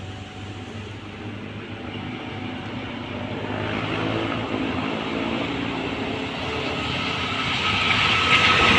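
Train approaching, its running noise growing steadily louder throughout, with a thin steady squeal coming in near the end.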